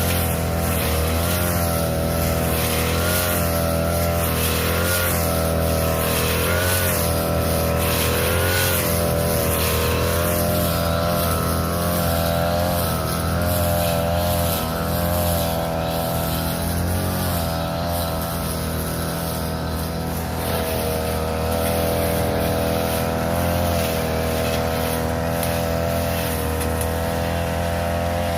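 Small petrol engine of a grass-cutting machine running steadily at working speed, its pitch wavering a little as it takes load cutting thick, weedy grass, with a constant swishing hiss from the cutting.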